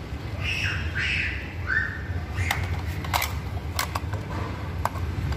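A bird squawking three times with short falling calls in the first two seconds, then several sharp clicks, over a low steady hum.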